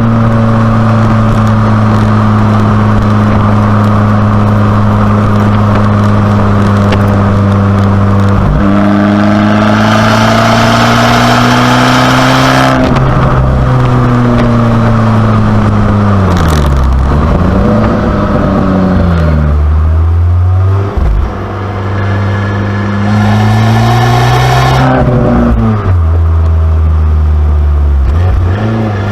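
Abarth 595C Competizione's turbocharged 1.4-litre four-cylinder sounding through its Record Monza exhaust as the car is driven. The engine holds a steady drone at constant revs, then its pitch steps and swings as gears change. About halfway through the revs fall and rise again, and the sound dips briefly for a moment a little later before the engine pulls up once more.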